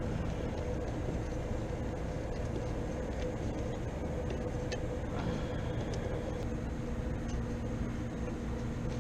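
Steady mechanical drone with a constant hum from nearby running machinery, with a few faint clicks.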